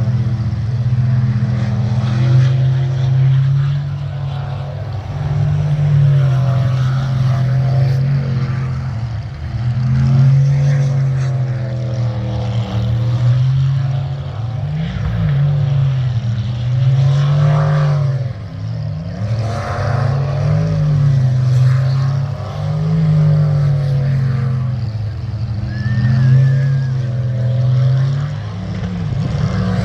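Jet sprint boat engine running hard through the course, its pitch rising and falling every second or two as the throttle comes on and off.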